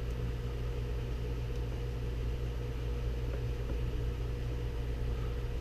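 Steady low background hum with a faint whine held at one pitch, with only a few very faint ticks.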